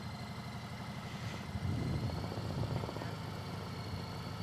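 Motorcycle engine running at low speed with a fast, even low rumble, getting a little louder about a second and a half in.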